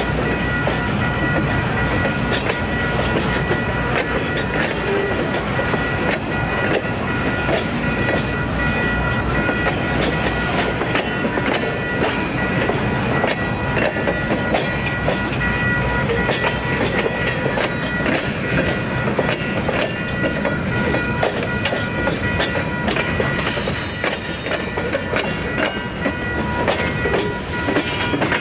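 Train cars rolling past, wheels clacking steadily over the rail joints with a continuous rumble. A thin high-pitched tone holds steady over it.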